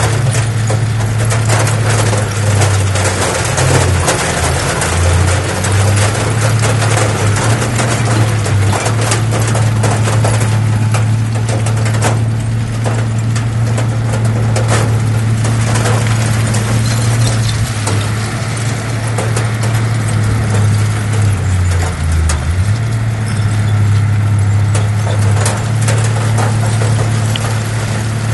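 Heavy diesel engine of earthmoving machinery running steadily with a deep hum. Its pitch dips briefly a few seconds in and again about three quarters of the way through, over scattered clicks and clanks.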